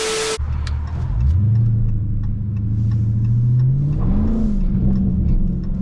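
Dodge Charger Scat Pack's 392 Hemi V8 accelerating: its note climbs steadily, dips and rises again about four seconds in, then holds at a higher pitch. A short hiss with a steady tone cuts off just after the start.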